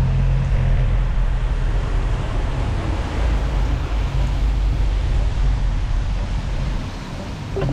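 Wind buffeting the microphone on a moving rider, a steady heavy rumble mixed with travel noise. There is a short click near the end.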